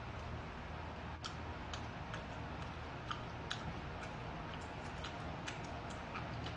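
Close-miked eating sounds: chewing and slurping of yangjangpi, starch sheets and crisp raw vegetables, with irregular sharp wet mouth clicks and smacks over a steady low hum.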